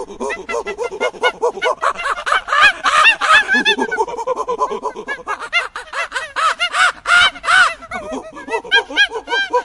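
A flock of birds giving many short, rapid calls that overlap, several a second, harsh and pitched.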